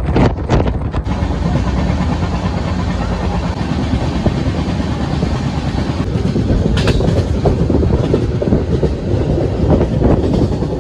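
Danapur Jansadharan Express passenger train running on the track, heard from on board: a steady, loud rumble of wheels on rails, with sharp clicks in the first second and one more about seven seconds in.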